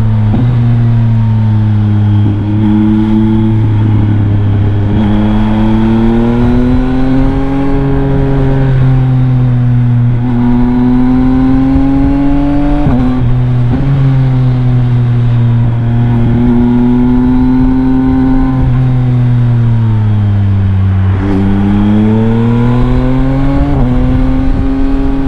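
Yamaha MT-09's inline three-cylinder engine through a Leovince LV Race exhaust with the dB killer removed, ridden with the engine note rising and falling over several seconds at a time. There are several sudden drops in pitch, typical of gear changes.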